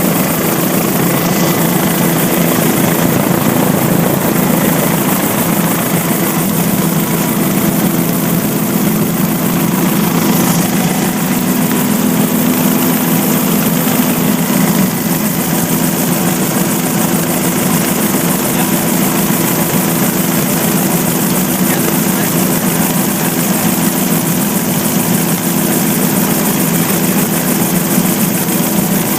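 Helicopter running steadily: a loud, unbroken engine and rotor drone with a constant pitch.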